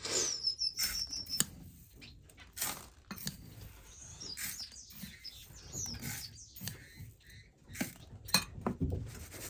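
Finches chirping with short high tweets, including a quick run of repeated notes near the start, among scattered sharp clicks and rustles.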